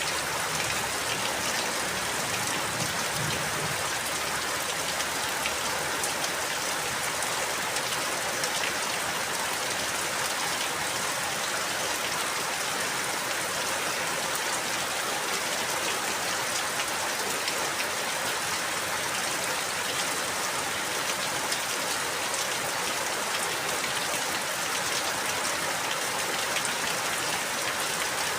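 Steady rain falling, with many fine drop hits pattering on a surface and no change in strength.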